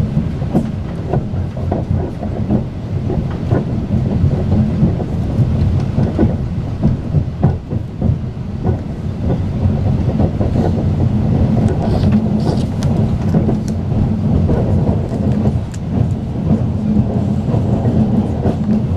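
Moving Talgo passenger coach of a Strizh express train heard from inside the car: a steady low rumble of the wheels on the rails, with irregular clicks and knocks from the track running through it.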